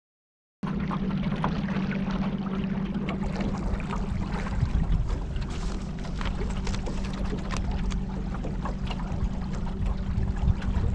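A boat's motor running at a steady pitch, with water rushing and splashing against the hull and wind on the microphone; the sound cuts in suddenly under a second in.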